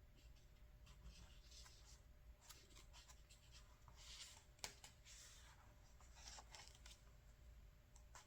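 Paper catalog pages being handled and turned: faint paper rustles and swishes several times, with a couple of small taps.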